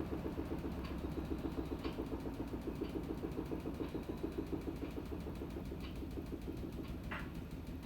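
Panasonic NA-FA100H9 top-loading washing machine running its cycle: a steady low hum with a fast, even pulsing, about six or seven beats a second, and a few faint clicks.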